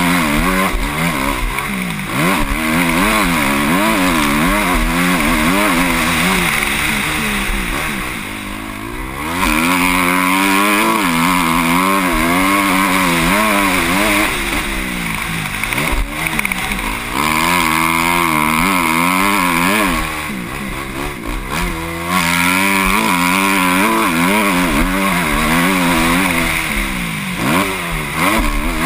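Motocross bike engine heard from the rider's helmet camera, revving hard and rising and falling in pitch as the throttle opens and the gears change. The engine drops off throttle twice, about eight seconds in and again about twenty seconds in, before pulling hard again.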